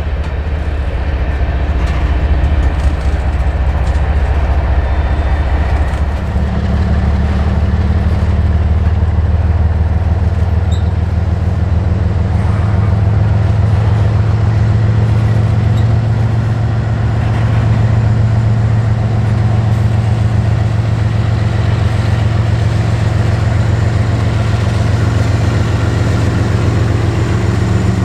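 A heavy engine running steadily with a deep, droning hum, which rises a little in pitch about six seconds in and holds there.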